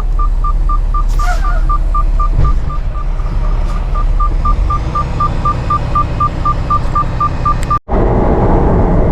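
Rapid electronic warning beeper, one steady tone sounding about four beeps a second, over a low engine rumble. The beeping stops near the end and a louder engine noise follows.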